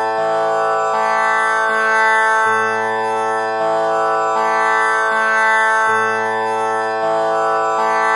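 Tanpura tuned to A (6 kattai) droning, its strings plucked one after another in a repeating cycle, the low Sa string coming round about every three and a half seconds under a shimmering buzz of overtones.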